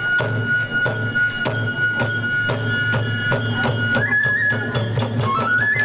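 Kagura festival music: a bamboo flute holds a long high note while a taiko drum and hand cymbals beat about twice a second. The flute steps up in pitch about four seconds in and again near the end, where the beat quickens.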